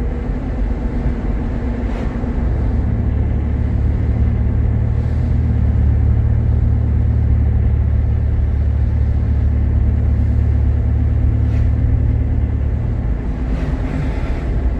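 Cabin noise of a Jeep Grand Cherokee on the move: a steady low rumble of engine and road that swells a couple of seconds in and eases off near the end.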